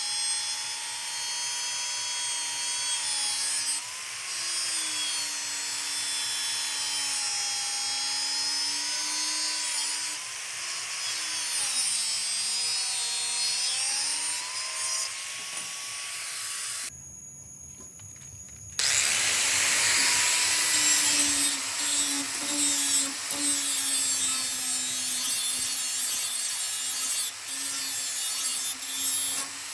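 Small electric motor running with a whine whose pitch wavers and dips as it is loaded, with a scraping, rubbing noise over it. About two thirds of the way through it drops away for about two seconds, then starts again.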